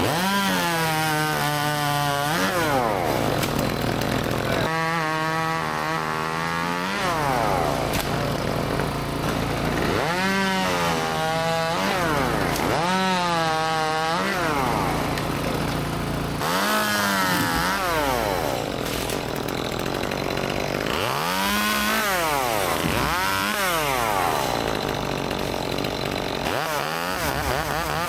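Two-stroke chainsaw running and cutting wood, revved up and down about eight times as the cuts are made.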